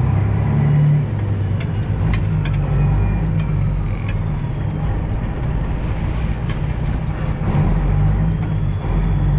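Detroit Diesel 12.7-litre engine of a Freightliner Classic XL semi truck running steadily at low speed, heard from inside the cab, with a few scattered clicks.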